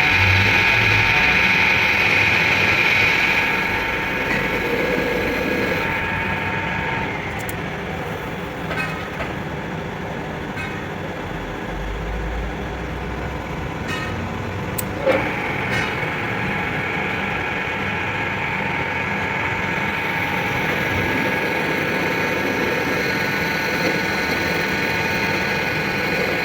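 Workshop machine running steadily with a humming whine of several held tones. The whine drops back after about four seconds and rises again from about sixteen seconds, with one sharp metallic knock about fifteen seconds in.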